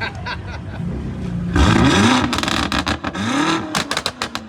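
A high-performance car engine revved hard twice, the pitch rising and falling on each rev, followed by a quick string of sharp exhaust pops and crackles as the revs drop. Very loud.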